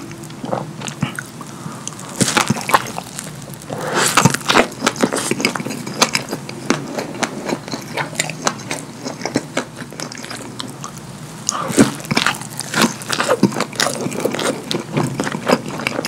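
Close-up wet chewing and lip-smacking of a double cheeseburger drenched in cheese sauce: a dense run of quick, sticky mouth clicks, heavier in stretches near the start and toward the end.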